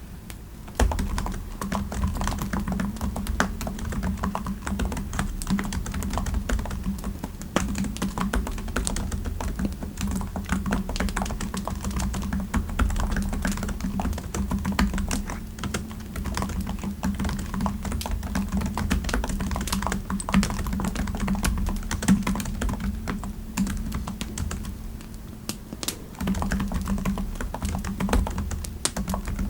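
Typing on a computer keyboard: a steady run of quick keystrokes that thins out briefly a few seconds before the end, then picks up again.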